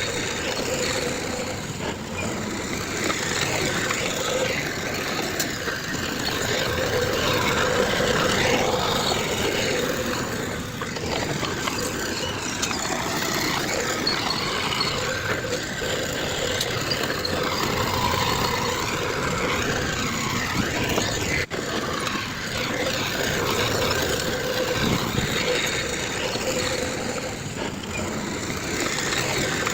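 Heavy diesel earthmoving machinery, bulldozer and dump trucks, running steadily with a faint held engine tone. There is a very brief break about two thirds of the way through.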